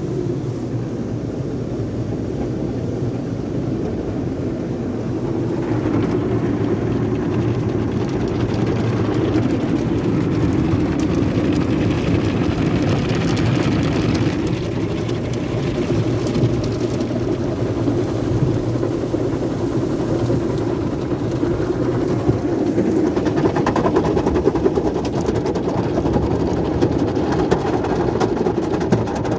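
Sonny's automatic car wash tunnel equipment running, a steady loud rumble. A hiss swells over it about six seconds in and again past the twenty-second mark.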